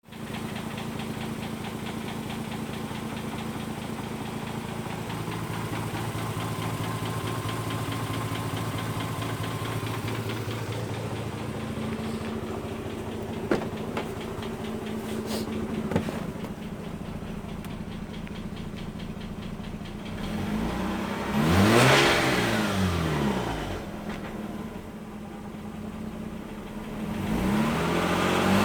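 Mazda RX-8's Renesis two-rotor rotary engine idling with a steady, fine rhythmic knock, which the owner takes for engine knock. Two sharp clicks come midway; about two-thirds of the way through it is revved up and back down once, and it starts to rev again near the end.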